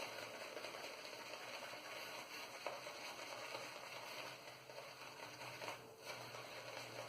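Faint, even swishing of an Omega 10075 boar-bristle shaving brush working Proraso Red lather over the cheeks.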